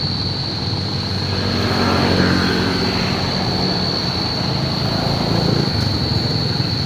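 A motor engine running, its pitch rising around two seconds in and again about five seconds in, over a constant high-pitched whine.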